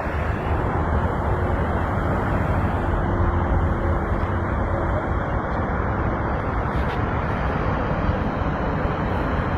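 Steady road traffic noise: vehicle engines and tyres making a constant low rumble.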